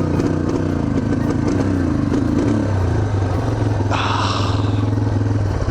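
Yamaha TTR230's single-cylinder four-stroke engine running steadily at a low, even speed while its battery is dead, the condition that makes this bike run poorly. A brief hiss or scrape comes about four seconds in.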